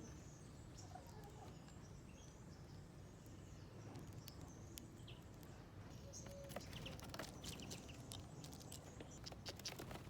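Faint scattered sharp ticks of small birds pecking and scratching at seeds on a feeder dish, coming thicker in the second half, over low outdoor background noise.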